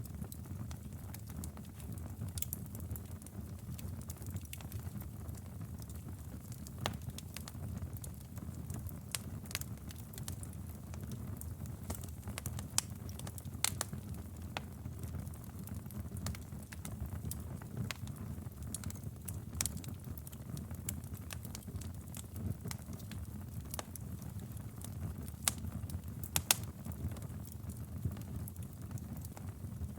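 Wood fire burning in a fireplace: scattered sharp crackles and pops over a steady low rumble, with a few louder snaps a little before the middle and again about five-sixths of the way through.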